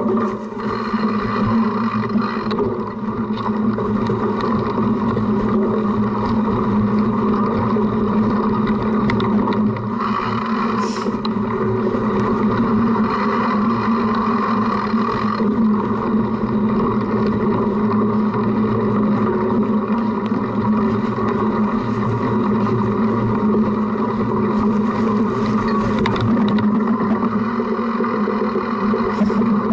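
Continuous rumble of a cyclocross bike being ridden over rough ground, picked up by a camera mounted on the front of the bike: tyre, frame and mount noise mixed with wind, steady throughout.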